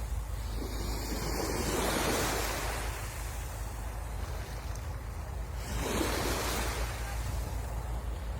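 Sea waves breaking and washing onto the shore, swelling about two seconds in and again about six seconds in, with a low rumble of wind on the microphone.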